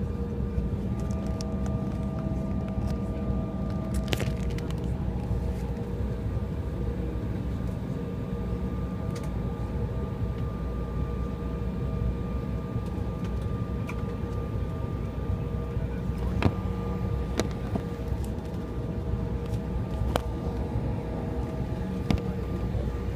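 Steady cabin noise of an Embraer 175 regional jet with its turbofan engines at low power: a low rumble with a few steady tones, broken by a handful of faint clicks.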